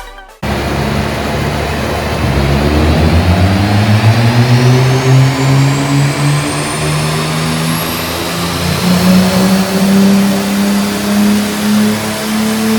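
Big-single-turbo BMW M4 straight-six under a full-throttle pull, its note climbing steadily for about eight seconds and then levelling off at high revs, with a high whistle rising alongside it.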